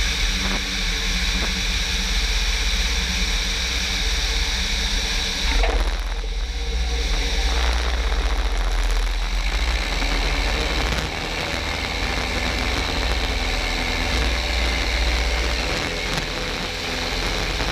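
Cabin noise of a Piper Cherokee in flight: the single piston engine and propeller droning steadily under a hiss of airflow. The loudness drops slightly about eleven seconds in.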